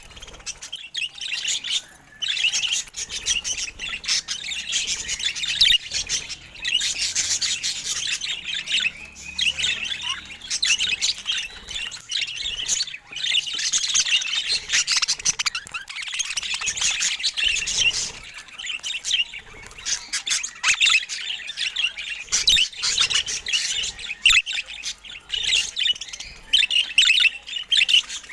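Budgerigars chattering and warbling continuously, a dense stream of quick chirps and squawks with only brief pauses.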